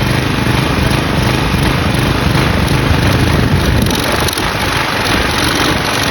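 Craftsman push mower's Briggs & Stratton flathead engine running and acting up while sand and grit are fed into its intake, with a brief dip in its sound about four seconds in.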